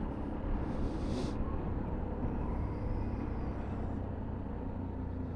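A 125cc Sinnis Terrain motorcycle's engine runs steadily under way, with road and wind noise. A brief hiss comes about a second in.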